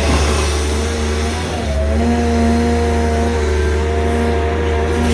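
Two hydraulic excavators, a CAT 320 Next Gen and a Komatsu PC200-7, digging rock at full power. Their six-cylinder diesel engines run hard under hydraulic load, and the engine and pump note steps up about two seconds in.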